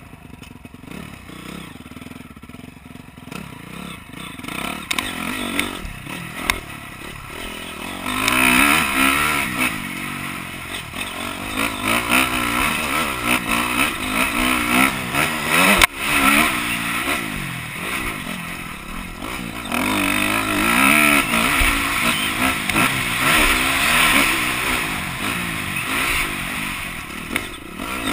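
Honda CRF250R motocross bike's single-cylinder four-stroke engine revving up and down over and over as it is ridden, quieter at first and much louder from about eight seconds in. A sharp click partway through.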